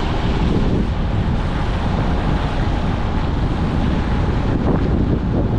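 Wind buffeting the camera's microphone: a loud, steady low rumble with no breaks.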